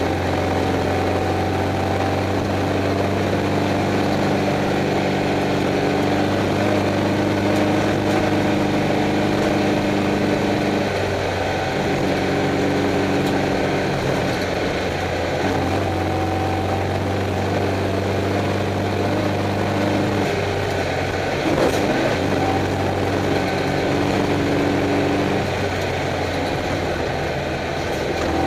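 Stock VW Beetle's air-cooled flat-four engine running steadily, heard from inside the car, its note shifting a few times. There is a brief knock about two-thirds of the way through.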